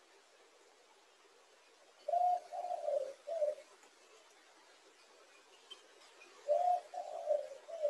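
A bird calling: two phrases of three low notes each, the second phrase about four seconds after the first.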